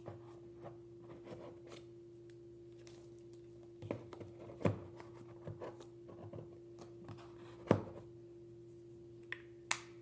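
A gimbal and its packaging being handled by hand: scattered small clicks and scratches, with two louder knocks in the middle and a short sharp scrape near the end. A steady low hum runs underneath.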